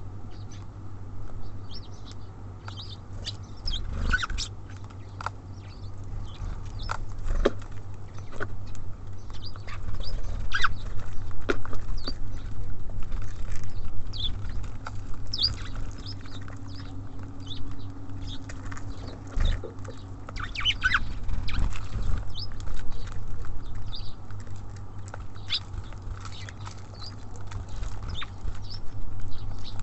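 Small songbirds at a seed feeder: irregular pecking, tapping and scrabbling of beaks and feet on the feeder, with short high chirps, over a steady low hum.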